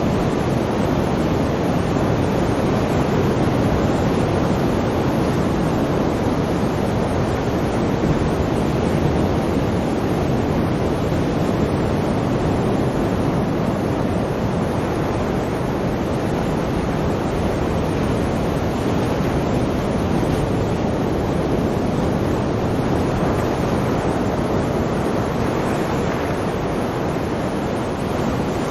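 Sea surf: a steady, unbroken rushing of waves with no distinct breaks or lulls.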